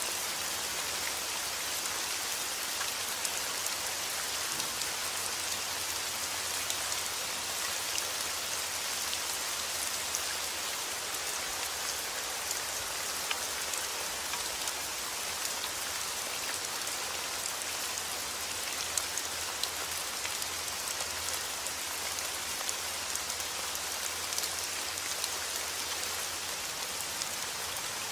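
Steady rain falling outdoors, an even hiss with scattered drop ticks on surfaces.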